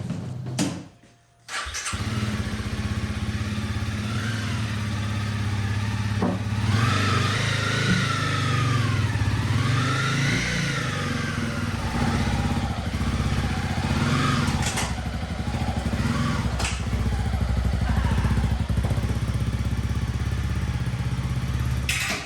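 Motorcycle engine, most likely the Honda CRF300L Rally's single-cylinder, running steadily after a brief drop in sound about a second and a half in. The throttle is opened twice in the middle, the pitch rising and falling each time.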